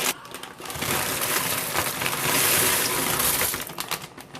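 Dry extra-wide egg noodles poured from their bag into the soup pot: a dense rattle of many small clicks that tails off near the end.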